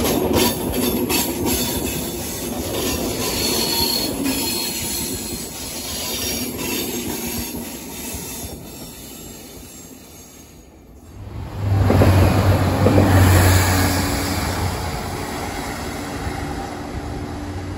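Corail passenger coaches rolling out along the platform, wheels clicking over rail joints with a thin wheel squeal, fading as the train draws away. About 11 s in, a louder steady rumble with a low hum starts, from an electric multiple-unit train approaching along open track.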